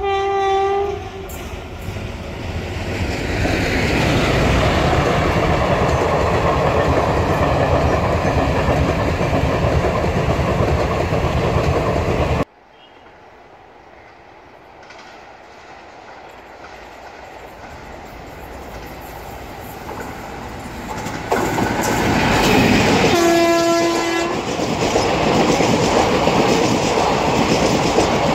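Passenger trains of ICF coaches running past at speed, in two clips. A locomotive horn ends just under a second in, then a loud steady rumble and clatter of coaches over the rails cuts off abruptly about twelve seconds in. A second train draws near, growing louder, sounds its locomotive horn for about a second near the 23-second mark, and its ICF coaches pass with a loud rumble and clickety-clack of wheels on rail joints.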